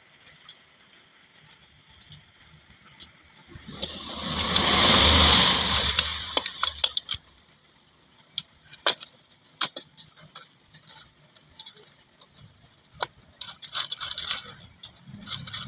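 Scattered light clicks and knocks of tools and metal engine parts being handled. A loud rushing noise with a low hum swells and fades between about four and six and a half seconds in.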